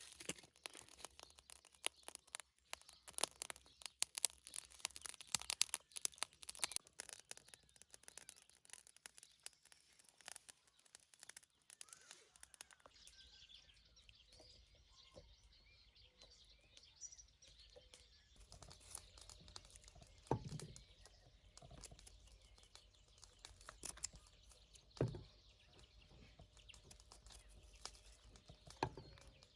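Dense quick clicking and crackling for about twelve seconds, then a quieter stretch with faint bird chirps and three short low thumps.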